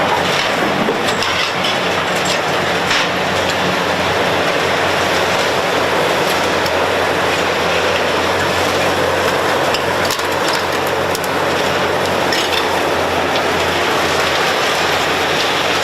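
Heavy machinery running steadily with a low engine hum under dense mechanical noise, with scattered clicks and knocks.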